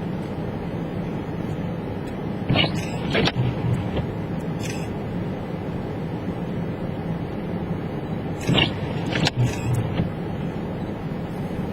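Steady engine and road noise of a car driving on a snowy road, heard from inside the cabin. Short sharp knocks come twice in pairs, about two and a half and eight and a half seconds in, with a single one in between.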